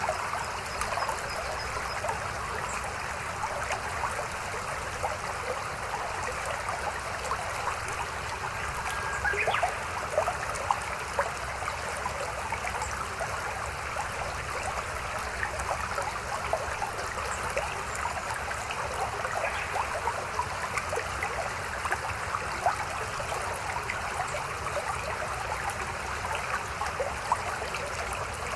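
Small mountain stream running steadily, a constant babble of water with many tiny splashes and trickles.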